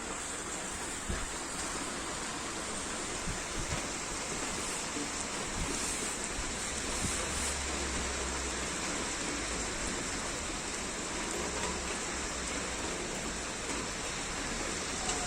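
Heavy rain falling steadily, a dense even hiss with drops pattering on surfaces, and a low rumble joining in about six seconds in.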